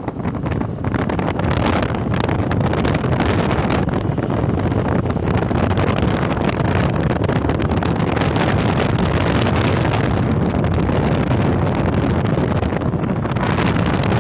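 Wind buffeting the microphone of a moving motorcycle, a loud steady rush with flickering gusts, over the ride's road and engine noise.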